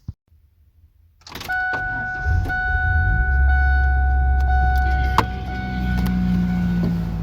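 Ford Ranger pickup's engine starting about two seconds in and then running at a steady idle, with a few clicks. A steady high-pitched tone sounds from about one and a half seconds and stops near the end.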